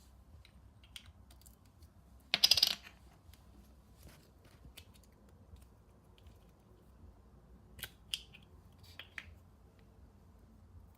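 Small objects being handled: scattered light clicks and taps, with one short, loud rustling burst about two and a half seconds in and a few sharper clicks near the end.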